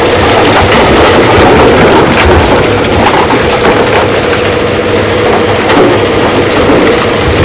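Heavy rock-crushing machinery running loudly and steadily, with a held mechanical tone and scattered knocks.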